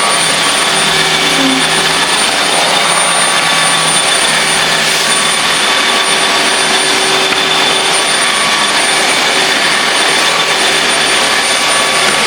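UWANT D100 cordless wet/dry vacuum mop running: a loud, steady motor whir with a few fixed whining tones above it.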